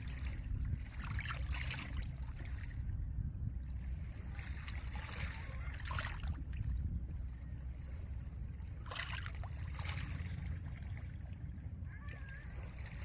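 Small lake waves breaking and washing over a pebble shore in repeated swells, about three in a few seconds' spacing, over a steady low rumble.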